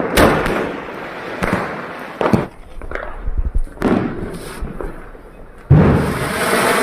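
Firecrackers going off: a series of sharp bangs at irregular intervals of about a second or more, each with an echoing tail, the loudest near the end.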